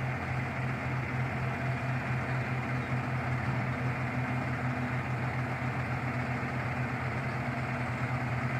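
Shingle delivery truck's engine idling steadily with an even low hum.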